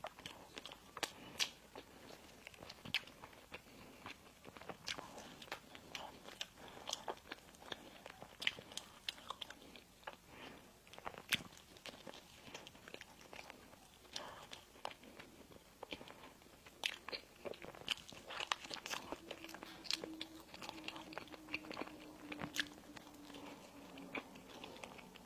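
Close-up eating sounds: irregular crisp crunches and chewing as bites of sweet pastry are chewed, many short snaps with soft mouth sounds between them.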